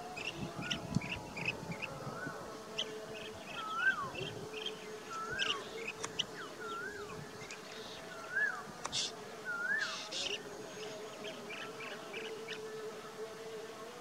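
Birds calling: one bird repeats a short whistled note that rises then falls, about once every second and a half, stopping about ten seconds in, over scattered short high chirps. A steady low hum runs underneath.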